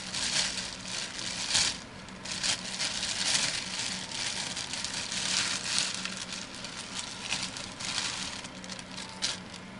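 Packaging being handled, crinkling and rustling in irregular bursts, over a faint steady hum.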